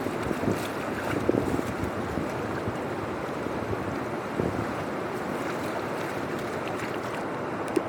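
Steady rush of flowing water, with a few louder splashy surges in the first couple of seconds and again about halfway through.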